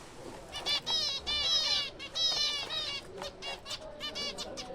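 Zebra finches in a colony calling: runs of short, quick calls from several birds, busiest in the first half and thinning to short chips near the end.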